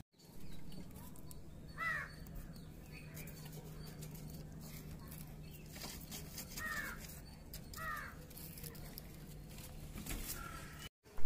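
A bird calling: three short calls a few seconds apart, over a low steady hum.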